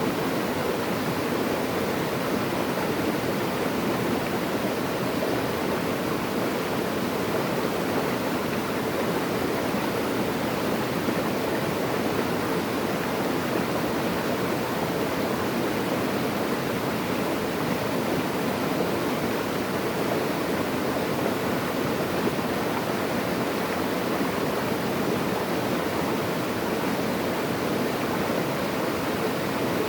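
Natural running water, a stream or falling water, flowing steadily without a break.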